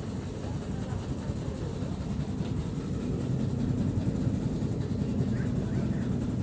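A tram running on street track, with a steady low rumble that grows louder about halfway through as it comes closer.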